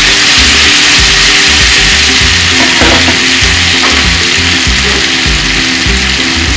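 Chopped chicken, tomato and green capsicum sizzling in hot oil in a wok, with a metal spatula stirring at the start. Background music with a low beat runs underneath.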